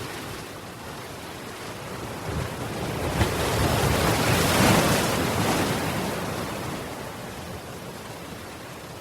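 One ocean wave building, breaking and washing out: the surf swells to its loudest about halfway through, then fades back to a steady low wash.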